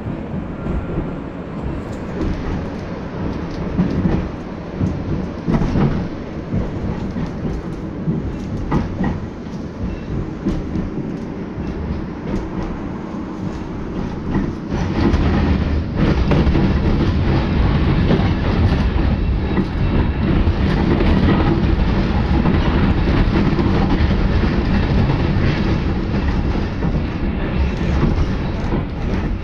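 KTM 71-623 tram running along the track: a steady rumble of wheels and running gear with scattered knocks over rail joints, growing louder about halfway through.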